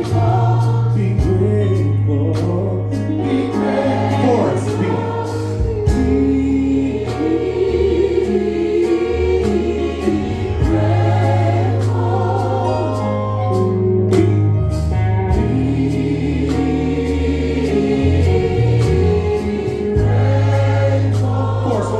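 Gospel choir singing with instrumental backing, the voices over steady low bass notes.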